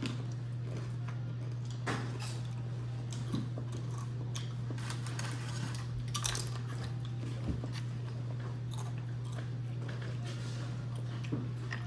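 A person chewing and biting food close to the microphone, with scattered short crunches and clicks over a steady low hum.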